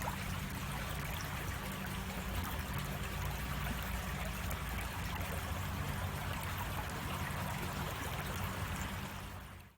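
A creek's water running and splashing steadily over rocks, fading out near the end.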